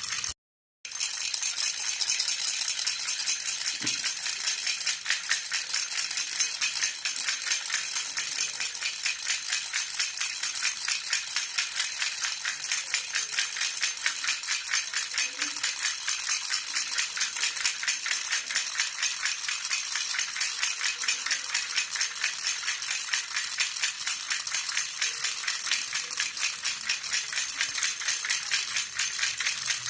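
A jhunjhuna baby rattle shaken steadily and rapidly, giving a continuous bright jingling rattle. It drops out completely for about half a second near the start.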